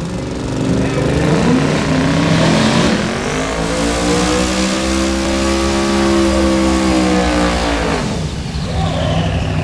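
Corvette's V8 engine revving hard during a burnout, the rear tyres spinning on the spot. The revs climb about three seconds in, hold high, then fall away near the end.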